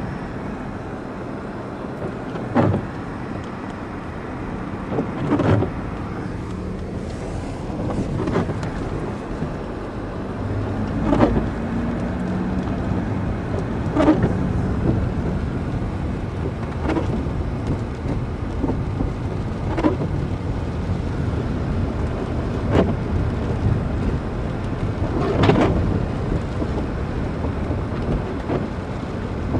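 Car driving along a road: steady engine and tyre rumble, with a short swishing sound repeating evenly about every three seconds.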